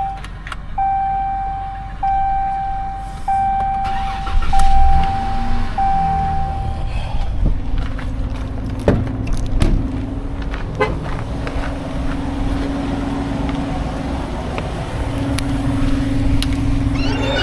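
Vehicle running, with a repeating electronic beep about once a second for the first seven seconds or so, then a steady low drone.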